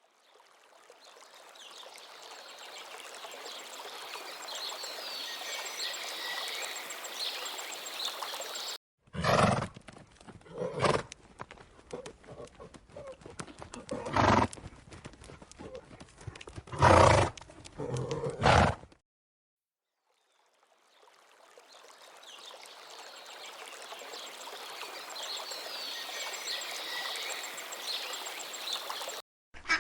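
A horse neighing about five times, loud separate calls spread over some ten seconds, between stretches of steady outdoor background noise that fades in.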